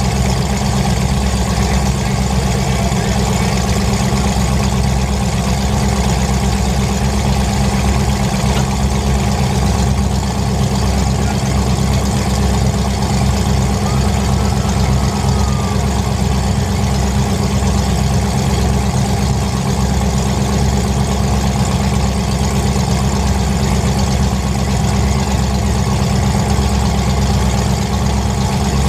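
Demolition derby car engine idling, a steady loud rumble with no revving.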